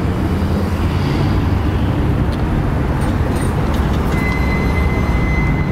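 Car engine running low and steady at slow speed. A thin, steady high whine joins about four seconds in.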